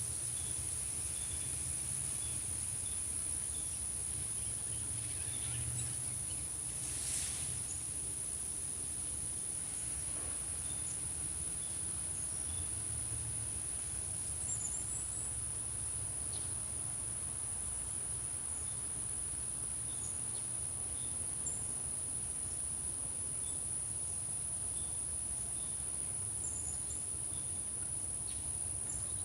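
Insects trilling steadily on one high-pitched note, with faint short chirps scattered through it.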